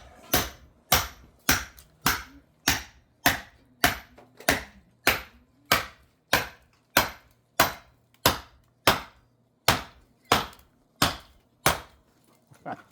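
Firewood being split by repeated sharp strikes, about twenty blows in an even rhythm, a little more than one a second, each a hard knock with a short ring-off; the striking stops near the end.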